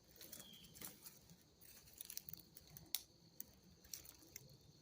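Near silence with faint scattered ticks and crackles of twigs and leaf litter underfoot; one sharper click about three seconds in.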